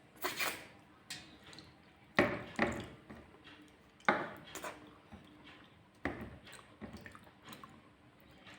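Wet eating sounds close to the microphone: short smacks and squishes of chewing, about eight in all, unevenly spaced, the loudest two a little after two seconds in.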